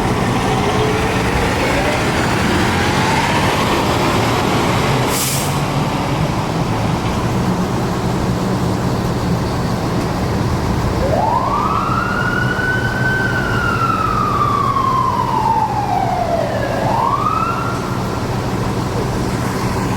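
Fire engine running with its siren: the pitch rises and then falls slowly in a long wail, rising again near the end, over the steady hum of the truck's engine. A short hiss comes about five seconds in.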